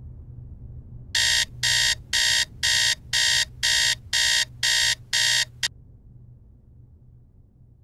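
Smartphone alarm beeping: nine sharp, high beeps at about two a second, stopping abruptly as it is switched off.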